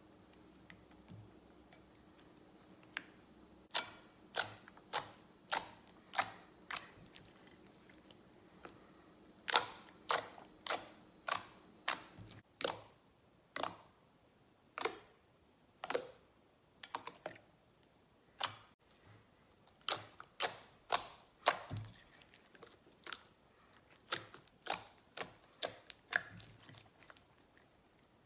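Slime being squeezed and poked, making an irregular series of sharp clicks and pops, about one or two a second.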